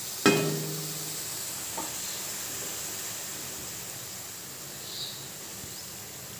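Mustard-and-curd paste sizzling in a hot metal pan, a steady hiss. A single sharp, ringing clink sounds about a quarter second in.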